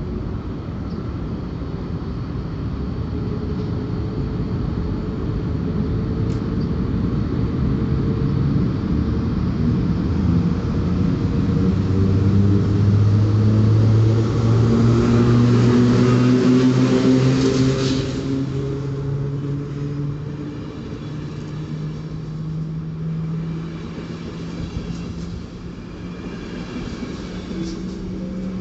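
PKP Intercity EP09 electric locomotive hauling a passenger train past at close range. Its electric hum rises slowly in pitch and is loudest as the locomotive goes by about halfway through. The coaches then roll past more quietly.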